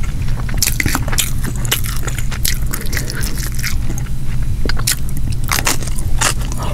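Close-miked eating: irregular crisp crunches of biting and chewing a raw cucumber slice dipped in ranch. A steady low hum runs underneath.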